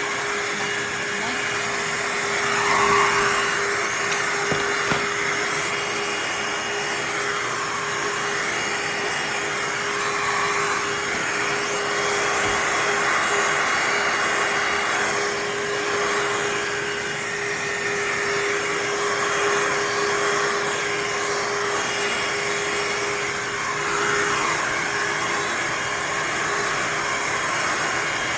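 Shark HydroVac MessMaster cordless wet-dry vacuum mop running: a steady motor rush with a constant hum-like whine, its level swelling and easing slightly now and then.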